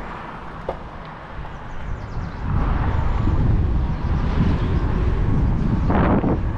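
Wind rushing over an action camera's microphone on a moving e-bike, with road noise, growing much louder about two and a half seconds in as the bike gets up to speed.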